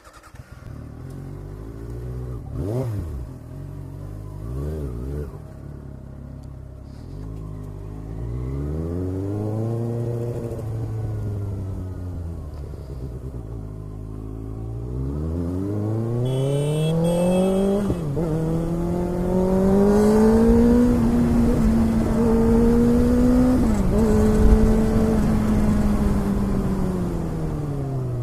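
Kawasaki ZX-6R's inline-four engine, fitted with an Ixil exhaust, starts up and is revved twice, then pulls away and accelerates, its pitch rising and dropping sharply at each upshift, about 18 and 24 seconds in.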